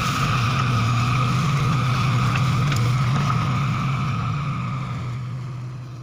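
Komatsu PC200-5 excavator's diesel engine running steadily with a higher whine above the low hum, fading out near the end.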